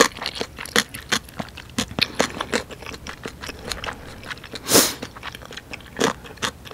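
Close-miked mouth sounds of someone chewing spicy Buldak rabokki, springy noodles and chewy rice cakes: a string of irregular wet smacks and clicks, with one brief louder hiss about five seconds in.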